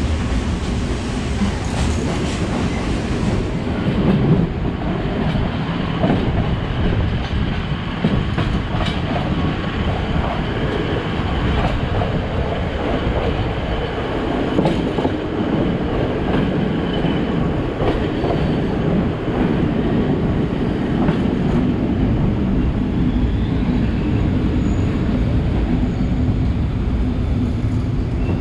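Moving passenger train heard from inside the carriage: a steady rumble of wheels on the rails, with scattered clicks as the wheels pass over the track.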